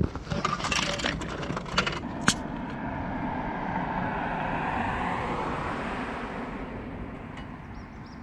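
Coins clinking, with a run of sharp clicks over the first two seconds or so. Then a passing car's noise swells and fades.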